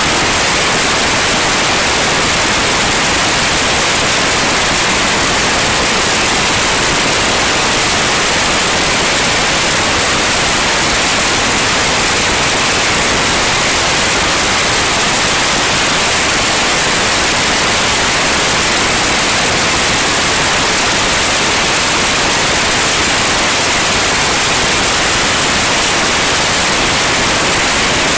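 Steady, loud rushing noise of a light aircraft in flight, airflow and engine noise blended into an even hiss with no changes.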